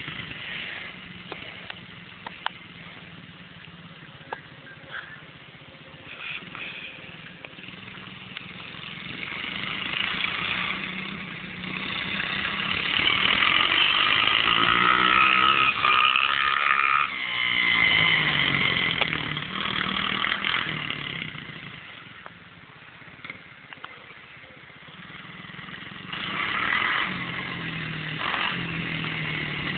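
110cc dirt bike engine revving as it rides around. It grows louder through the middle, with the pitch bending as the bike passes close, then fades away and comes back near the end.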